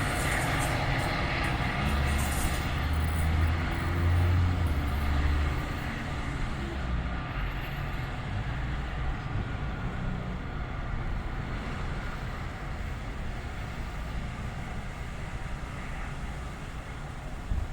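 NJ Transit commuter train running on the rails, with a heavy low rumble strongest in the first five or so seconds, then fading steadily as it moves away.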